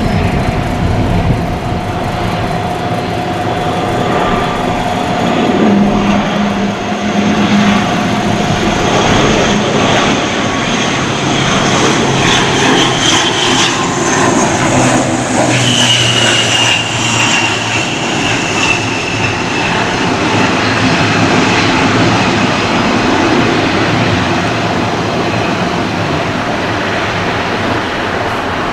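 ATR 72-600 turboprop airliner passing close by, its two Pratt & Whitney PW127 engines and propellers running with a loud roar and steady whine. A high whine falls slowly in pitch from about halfway through as the aircraft goes past.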